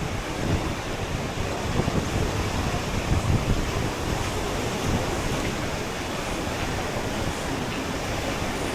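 Ocean surf washing on the beach, with wind buffeting the microphone in low rumbling gusts.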